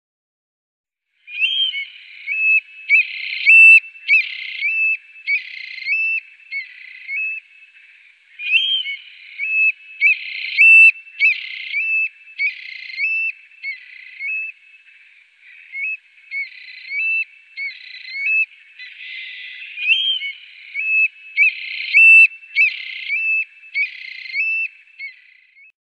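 A songbird singing: repeated phrases of clear whistled notes, with short pauses between the phrases.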